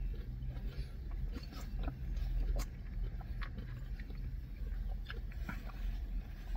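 People chewing close to the microphone: crunchy bites of a kale salad with roasted almonds and a sandwich, with many small irregular clicks and crackles over a low steady hum.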